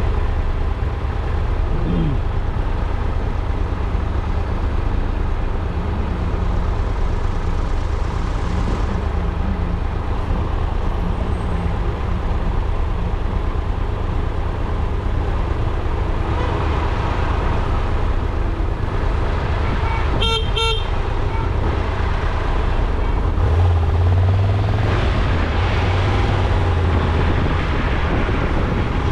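Steady low rumble of a car on the road, with a car horn giving two short toots about twenty seconds in.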